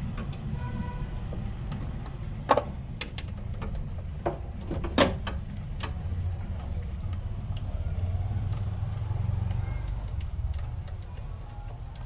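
Scooter engine running with a steady low rumble that swells a little near the end, with two sharp knocks and a few lighter ticks in the first half.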